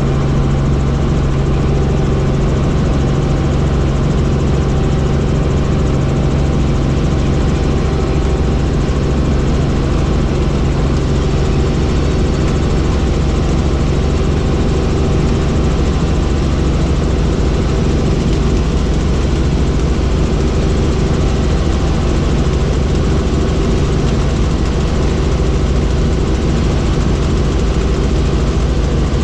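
Helicopter engine and rotor running, a loud steady drone with a constant low hum and no change in pitch.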